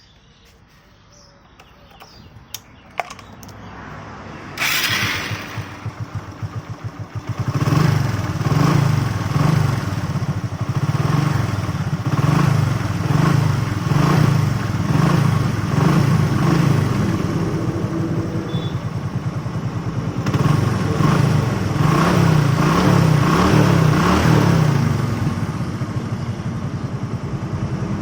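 Hero BS6 motorcycle's single-cylinder engine starting about four to five seconds in, after a few light clicks, then running with repeated short revs and settling steadier near the end. The engine noise is the sound problem under diagnosis.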